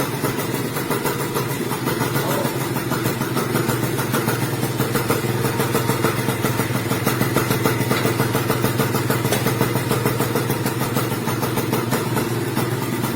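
Honda NSR SP single-cylinder two-stroke motorcycle engine idling steadily through its exhaust, a rapid even pulse.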